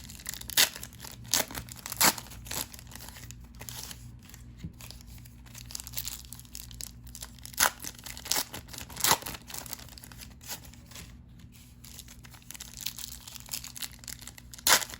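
Trading cards and their pack wrappers being handled: irregular crisp snaps, slides and crinkles of card stock and wrapper as cards are peeled off and flipped one after another.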